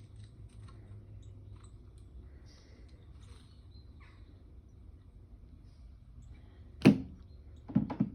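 A kitten pouncing on a smartphone lying on the floor: faint scattered light taps and clicks, then one sharp knock about seven seconds in and a quick run of knocks near the end as the phone is struck and shoved.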